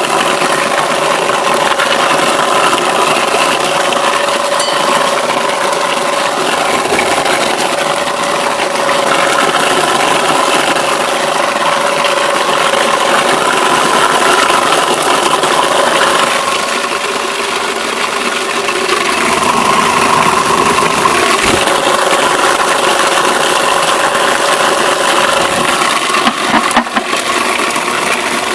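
Homemade apple crusher, driven by the electric motor from a Zarya 2M washing machine, running steadily while it chops apples: a constant hum with a noisy, rattling grind. A short burst of clatter comes near the end.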